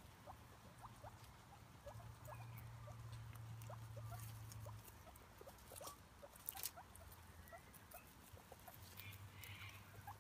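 Faint, scattered short chirping calls of small animals over a low steady hum, with a few soft clicks.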